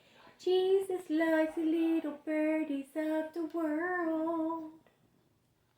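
A high female voice singing a slow tune in held notes, the last note long and wavering before it stops about five seconds in.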